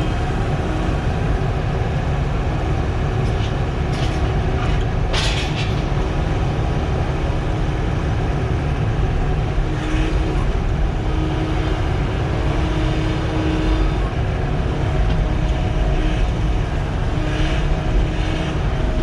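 Sany SY95 excavator's diesel engine running steadily under work, with a sharp knock about five seconds in.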